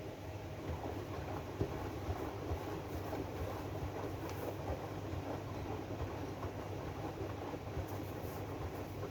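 AEG DualSense washing machine running its drum-clean cycle: a steady motor hum and drum rumble, with scattered light knocks.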